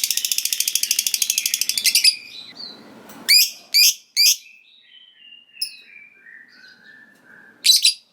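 Lovebird (Agapornis) giving its long chattering 'ngekek' song: a rapid high trill for about two seconds, then three sharp shrill calls, a falling run of softer chirps, and a short burst of chatter near the end.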